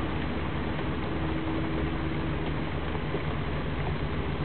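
Steady rain falling, heard from under a wooden shelter as an even hiss with no breaks.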